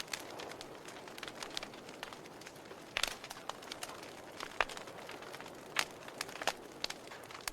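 Campfire burning and crackling: irregular sharp pops and snaps, a few louder ones near the middle, over a soft steady hiss.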